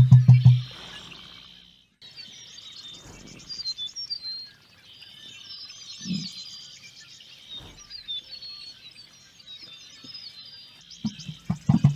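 Many small birds chirping and trilling in an aviary, over a steady high-pitched hum of calls. A loud low pulsing sound, about five beats a second, ends just under a second in and comes back near the end.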